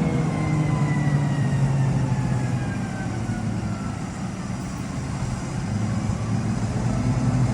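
Large diesel engine of an Albach wood chipper, about 800 horsepower, running steadily. Its pitch sags over the first few seconds and picks back up near the end.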